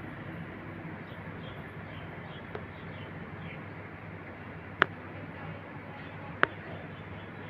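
Outdoor background noise with faint, scattered high bird chirps, broken by two sharp clicks about a second and a half apart in the second half.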